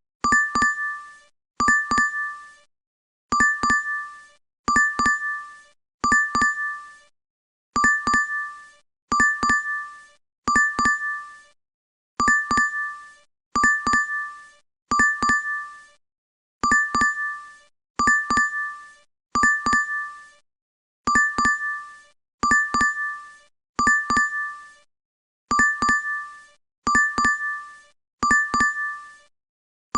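DoorDash app notification chime on a loop: a bright two-tone ding, struck in quick pairs that repeat over and over with brief gaps between them.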